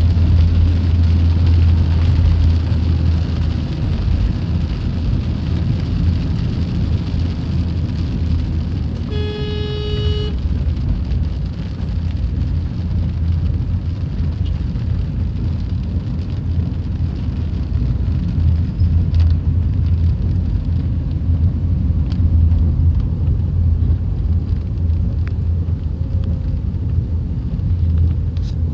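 Steady rain with a constant low rumble. About nine seconds in, a single pitched tone with overtones sounds for about a second.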